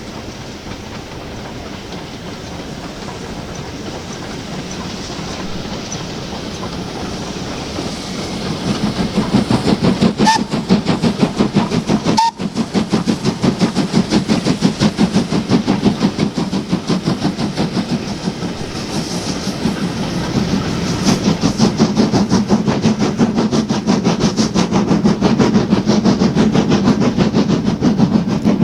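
Steam locomotive and its train drawing closer, growing louder, then passing close by about nine seconds in with a fast, steady rhythmic beating.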